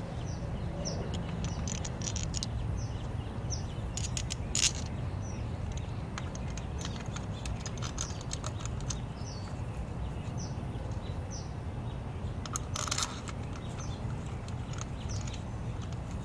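A small bird chirping over and over in short, high, downward-sliding notes, over a steady low outdoor rumble. A few sharp clicks, like metal tools being handled, come about four seconds in and again near the end.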